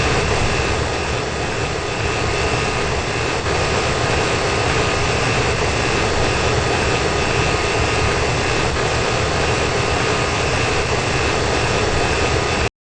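Old wall-mounted HVAC unit running: a steady rush of blower air with a low rumble and a thin, constant high whine.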